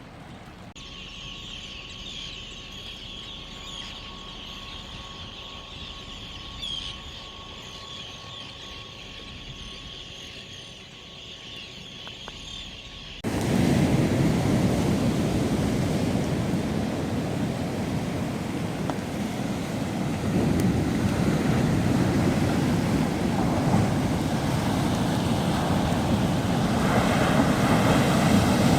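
A quieter stretch with faint high chirps, then an abrupt switch about halfway through to loud ocean surf washing on a beach, with wind on the microphone.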